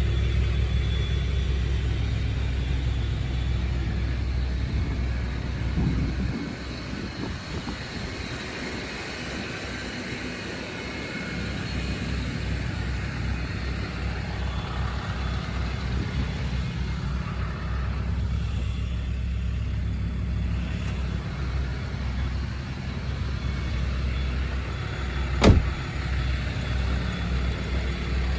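2014 Ford F-250 pickup's engine running steadily at idle, with its low hum easing off for several seconds about six seconds in. There is a single sharp knock near the end.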